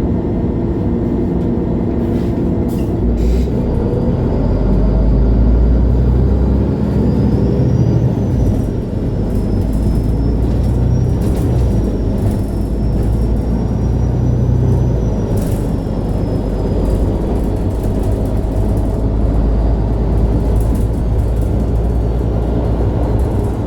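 2011 MAN Lion's City G articulated city bus driving: its diesel engine runs with a steady heavy rumble, climbing and dropping in pitch as the bus pulls away and changes speed. A faint high whine rises and falls with it, and a few short clicks come about two to three seconds in.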